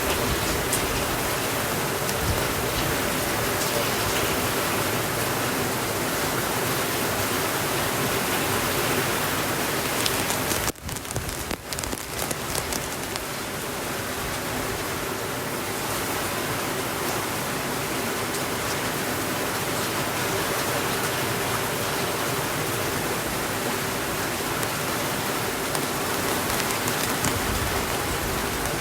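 Steady rainfall, an even hiss of rain with a brief dropout about eleven seconds in before it carries on slightly softer.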